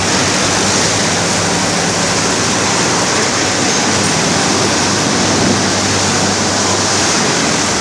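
Sugar mill machinery running: a loud, steady rushing noise with a low, even hum underneath.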